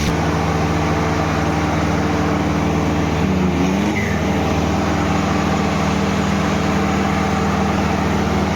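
Tractor diesel engine held at high, steady revs while pulling hard in a tug-of-war, with a brief wobble in pitch about three seconds in.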